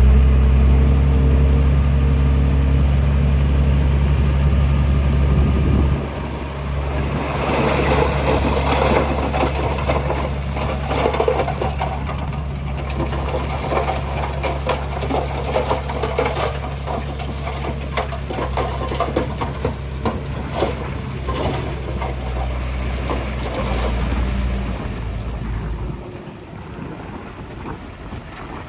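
Diesel engine of heavy earthmoving machinery running steadily, with a long stretch of dense clattering and rattling in the middle. The level drops off near the end.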